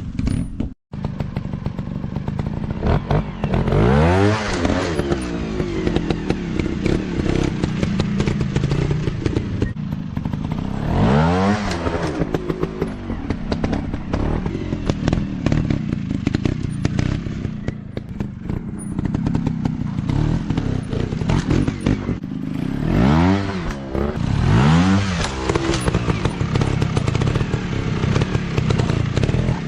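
Dirt bike engines running off-road, blipped up in four sharp rising revs over a steady engine drone.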